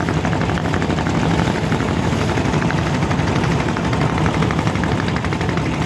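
Motorboat's engine running steadily with a fast, even chugging beat.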